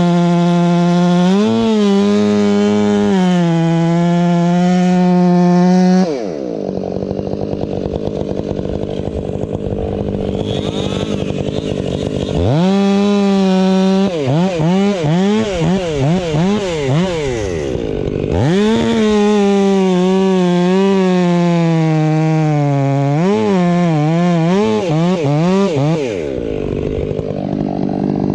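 Two-stroke chainsaw running at high throttle, then dropping to idle about six seconds in. It is revved up again with a series of quick throttle blips, held high for several seconds, and dropped back to idle near the end.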